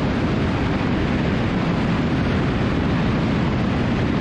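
Cessna T310R twin's engines and propellers running at reduced approach power, with wind rushing over a wing-mounted camera, making one steady noise.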